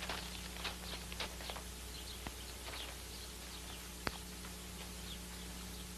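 Faint bird chirps, a few short falling calls in the first few seconds, over the steady hiss and hum of an old film soundtrack, with a couple of small clicks.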